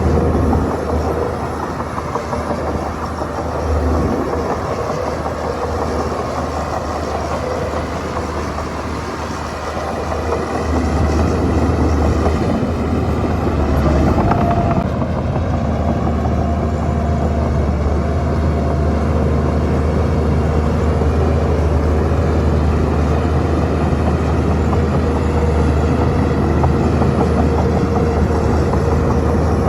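Heavy diesel engine of a Shantui crawler bulldozer running steadily as it works, with a deep low hum, easing off somewhat for a few seconds and coming back louder about ten seconds in.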